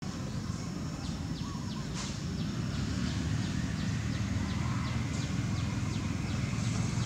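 A bird repeating a short, high, falling chirp about three times a second over a steady low rumble.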